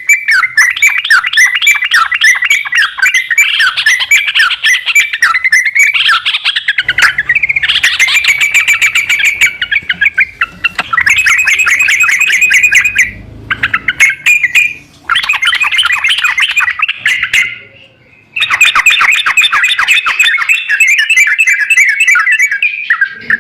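Recorded sooty-headed bulbul (trucukan) song played as a lure track to prompt a caged bird to sing: fast, dense chattering phrases in several bouts, broken by brief pauses.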